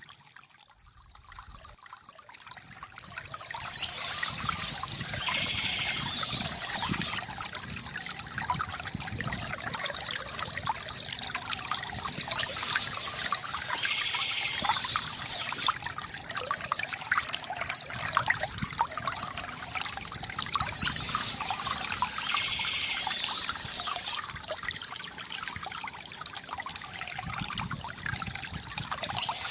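Stream water trickling and splashing steadily, fading in over the first few seconds.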